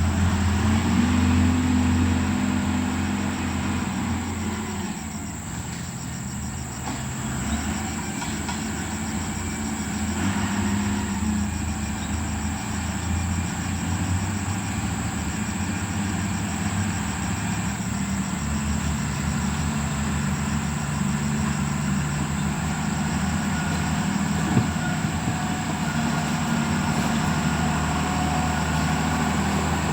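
Diesel engine of heavy road-works machinery running steadily, its engine note changing pitch a few times as the machine works.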